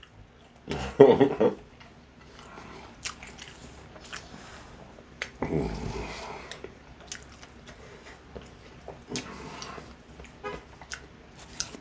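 A person chewing and biting food close to the microphone: many small wet mouth clicks and smacks, with two short hummed murmurs, about a second in and again about five seconds in.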